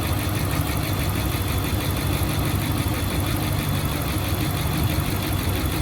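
Dodge Ram Hemi V8 idling steadily with a fast, even valvetrain tick, the lifters still filling with oil so the noise is slowly fading.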